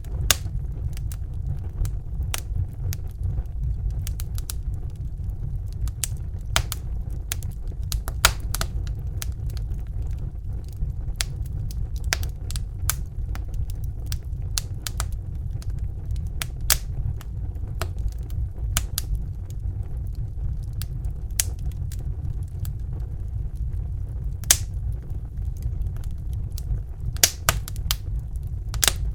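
Crackling fire: irregular sharp crackles and pops over a steady low roar, which fits the flame of a Bunsen burner.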